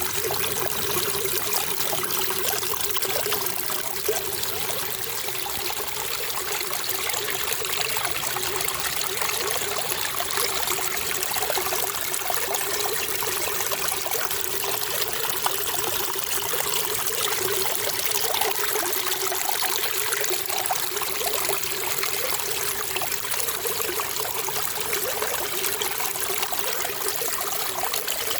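Running water trickling steadily, with no pauses or changes.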